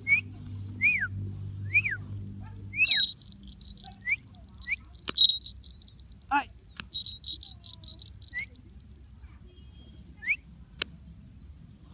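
Bird chirping: a run of sharp chirps that slide downward in pitch, about one a second for the first three seconds, then scattered shorter chirps and a few sharp clicks. A low hum sits under the first three seconds.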